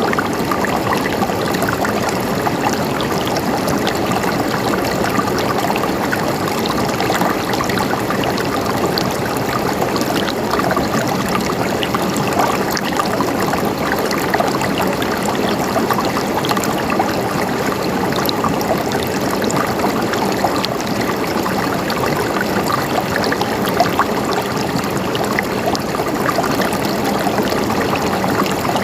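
Running water gurgling and trickling steadily, with many small splashes.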